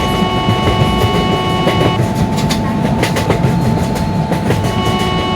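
Express train passing at speed: a heavy, steady rumble with the clatter of wheels over rail joints. Steady high-pitched tones ring over it, cutting out about two seconds in and coming back near the end.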